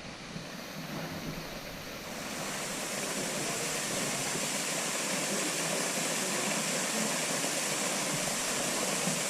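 Steady rushing of a waterfall pouring into its pool, getting a little louder about two seconds in.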